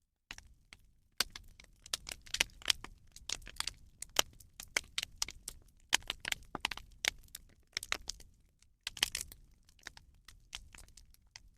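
Rubbish bonfire burning, with dense, irregular sharp crackles and pops.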